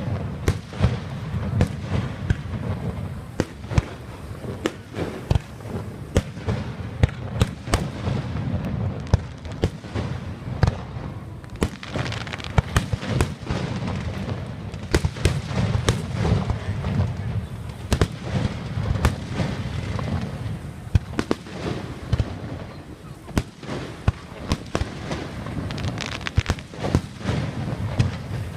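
Fireworks going off: a rapid, irregular run of bangs and crackles, often several a second, over a steady low rumble.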